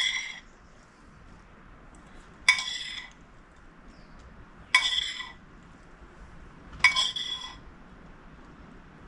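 Four ringing clinks of a utensil against a serving bowl, about two seconds apart, as toppings are placed.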